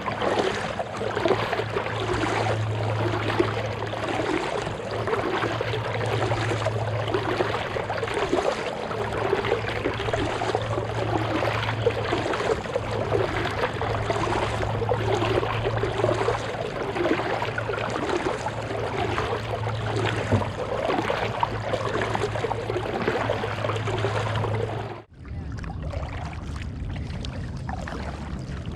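Water splashing and trickling around a kayak being paddled, in an even rhythm over a low steady hum. About 25 seconds in the sound cuts and carries on more quietly.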